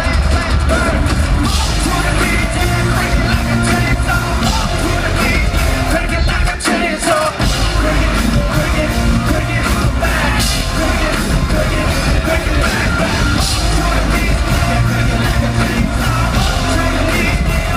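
Live heavy rock band playing loud, with shouted vocals over distorted guitars, bass and drums. The bass drops out for about a second about a third of the way in, then comes back.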